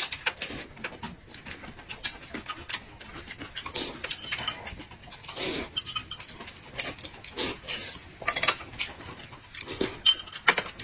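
Close-up chewing and crunching of food, with many short crackling clicks and wet mouth noises.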